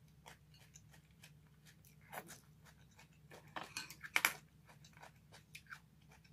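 Close-miked eating sounds: chewing with many small, sharp mouth clicks, and a few louder clacks about two seconds in and again just past the middle.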